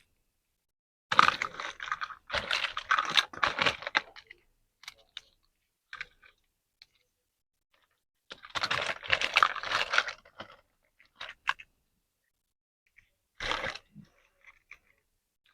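Packaging of a toy set being handled and crinkled in three bursts of crackling and rustling: two long ones and a short one near the end, with quiet between.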